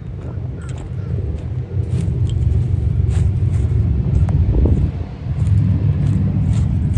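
Wind buffeting the microphone: a loud, uneven low rumble, with a few light clicks.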